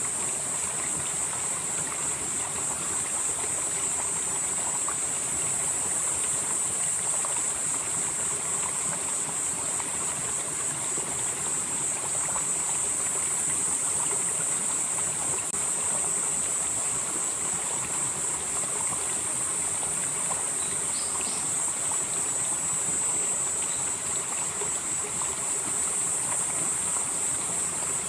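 Valley stream flowing steadily over rocks. A constant high-pitched buzzing sits over it, with an upper edge that swells and fades every few seconds.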